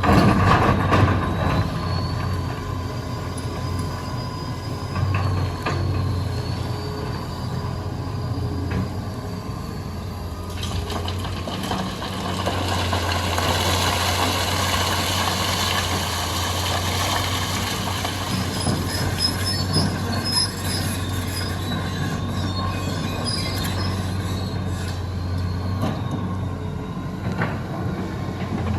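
Hitachi EX200 hydraulic excavator at work, its diesel engine running steadily under a high, wavering whine for the first ten seconds or so, with short high squeaks later on.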